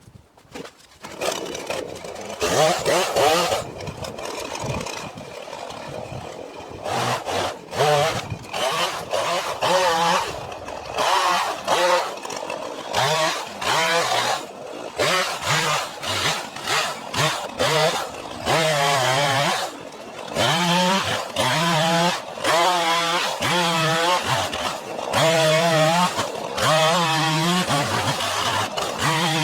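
Gas two-stroke chainsaw running and cutting, its engine revving up and dropping back over and over, about every second or two. It starts about a second in.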